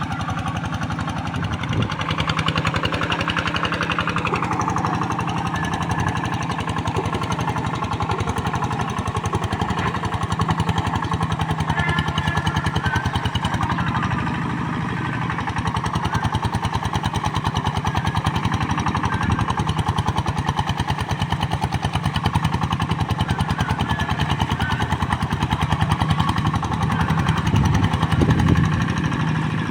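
Two-wheel hand tractor's engine running steadily at full throttle with a fast, even knocking beat, under load while pulling a moldboard plough through soft, deep paddy mud.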